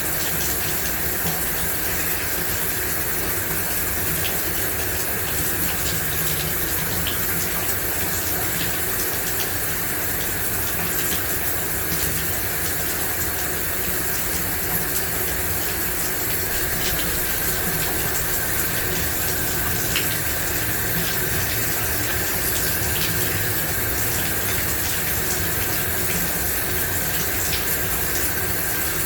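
Shower running steadily, water spraying and splashing with a faint scatter of small drips and ticks.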